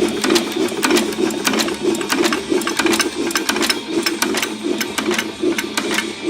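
5 hp Galloway single-cylinder hit-and-miss engine running, with a steady rhythmic beat about four times a second and sharp mechanical clicks over it.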